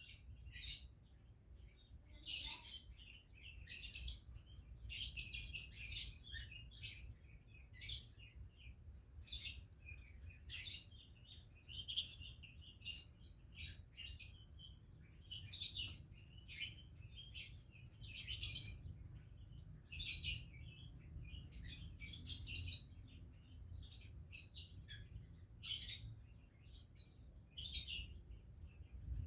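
Caged sooty-headed bulbul (kutilang) chirping in short, high, bright bursts, one every second or two, over a faint low hum.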